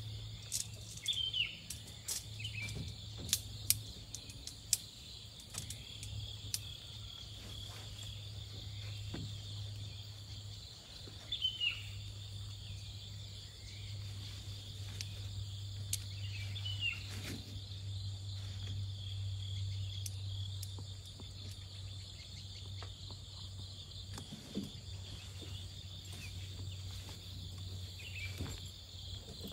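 Steady high chirring of crickets, with scattered sharp clicks and taps, most of them in the first several seconds, and a few brief high chirps.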